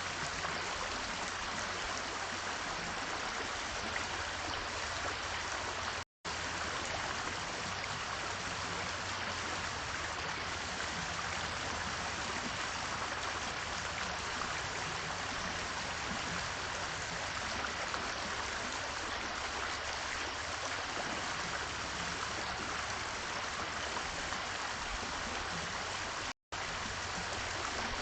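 Steady rushing noise of water, even and unbroken apart from two brief cut-outs to silence, about six seconds in and near the end.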